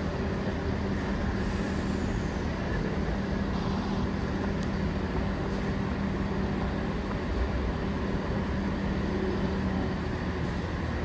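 Train at a station platform: a steady mechanical hum with a low held tone that stops near the end.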